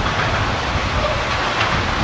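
Double-stack intermodal container train rolling across a steel overpass bridge: a steady, continuous rumble of wheels on rails.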